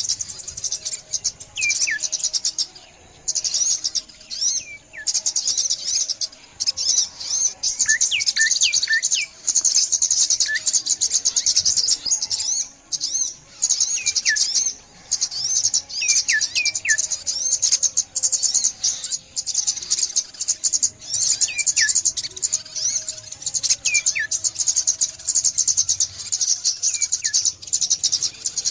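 A chorus of small songbirds calling: a dense, rapid, high-pitched twitter that never stops, with short falling whistles repeated every second or two over it.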